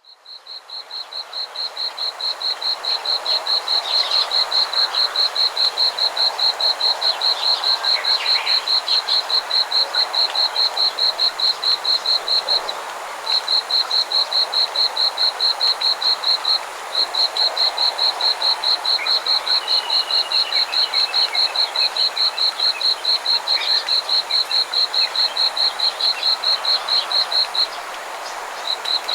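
Rice-paddy chorus of frogs and insects: one loud, high call pulses rapidly and evenly, pausing briefly a few times, over a denser background of fainter calls. It fades in over the first few seconds.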